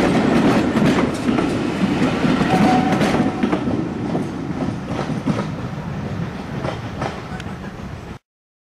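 Railway passenger coaches rolling past close by, wheels clicking and clattering over the rail joints. The sound fades as the last coach draws away, then cuts off suddenly near the end.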